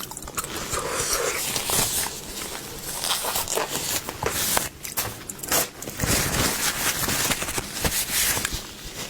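Close-up eating of seafood: a dense run of crackles, crunches and wet chewing and scraping.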